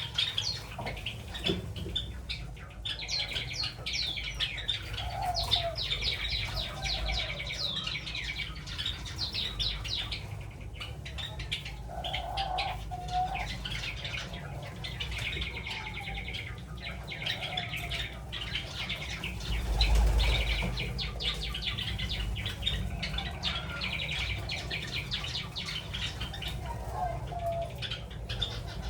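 Aviary colony of Java sparrows and doves: fast bursts of high chattering chirps, with a few short lower calls in between. A brief low rumble comes about two-thirds of the way through.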